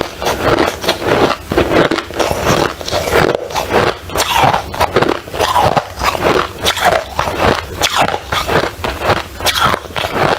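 Ice crunching close to the microphone, a loud, unbroken run of crisp crunches several times a second.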